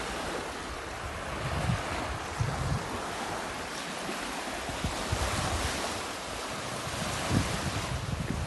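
Sea waves washing onto a beach in a steady rush, with wind buffeting the microphone in irregular low gusts.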